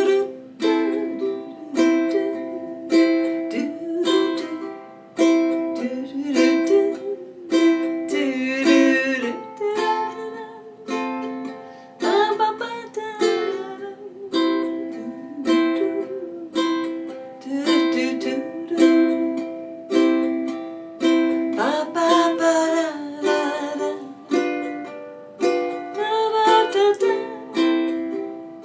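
Ukulele strummed with steady, evenly spaced down-strums through the song's C, F and G7 chords, with a hummed melody over it.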